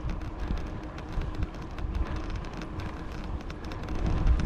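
Wind buffeting the microphone of a camera carried on a moving bicycle, a low uneven rumble, with many small clicks and rattles from the ride.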